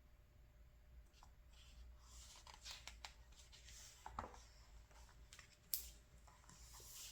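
Faint rustling of paper catalog pages being handled and turned by hand, with one sharper paper snap late on.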